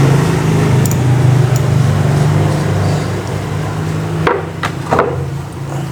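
Sharp metal knocks from a bicycle freewheel being taken apart, a few scattered and then a cluster about four to five seconds in, over a steady low hum.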